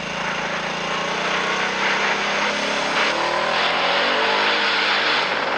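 A car driving: engine and road noise, loud and steady, with the engine pitch shifting slightly.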